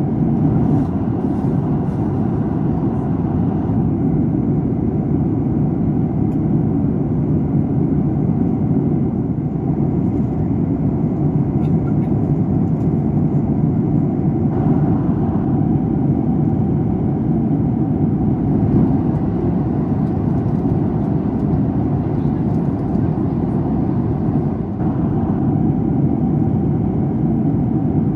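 Boeing 737 MAX 8 cabin noise in cruise: a steady, even rush of airflow and engine noise heard from inside the cabin, with no change in pitch or loudness.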